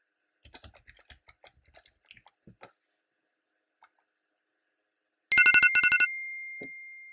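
Computer keyboard typing for a couple of seconds. About five seconds in, a loud electronic timer alarm starts: a rapid string of beeps at two pitches, then one long high tone that slowly fades. It is the Pomodoro timer signalling the end of a 25-minute work session.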